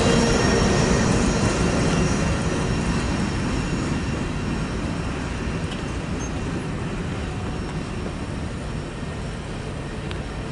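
Freight train rolling away just after its last car clears the grade crossing, a steady rumble that fades gradually.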